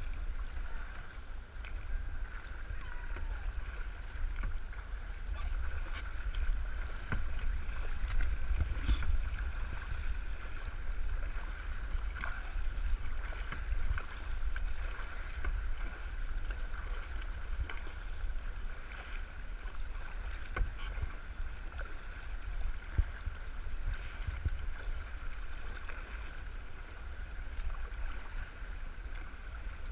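Kayak moving on a river, heard through a GoPro camera: a steady low rumble of water and handling noise, with scattered short knocks.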